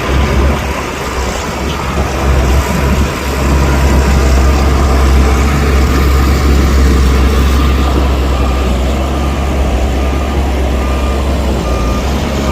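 Heavy diesel engine of earthmoving machinery running, a loud, steady low rumble.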